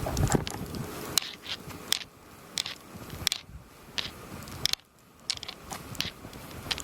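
Footsteps crunching in snow at a steady walking pace, about one and a half steps a second, with a low rumble of wind on the microphone in the first second.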